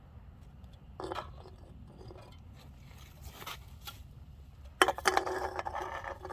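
Handling noises: a short scrape about a second in and another past the middle, then a sharp knock about five seconds in followed by a second and a half of scraping, rattling clatter.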